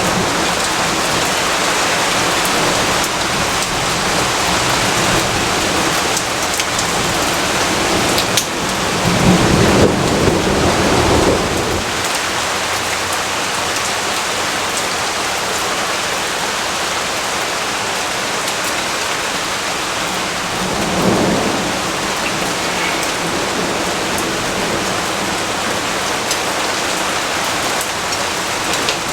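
Steady rain falling, with two low rumbles of thunder: a longer, louder one about a third of the way in and a shorter one about two-thirds of the way through.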